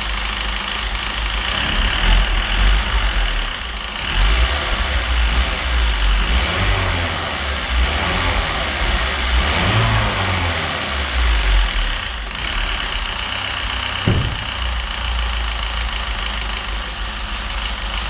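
Citroën DS3 1.6 petrol engine running rough with a rattling knock, revved up and down several times. The engine has been run without oil, and the mechanic traces the wear to the camshafts. A single sharp click comes about 14 seconds in.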